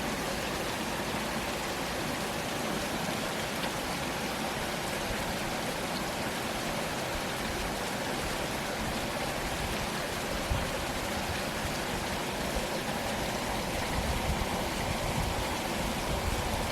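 Steady heavy rain falling, a constant hiss with some low rumble.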